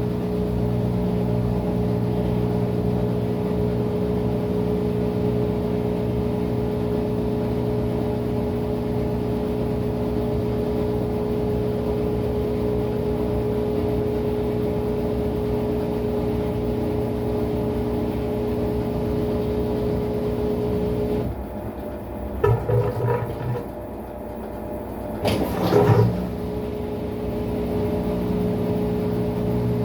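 Maytag MVWX655DW1 top-load washing machine running a tub clean cycle with a steady mechanical hum. About two-thirds of the way through the hum stops for a few seconds, with a couple of knocks, then starts again.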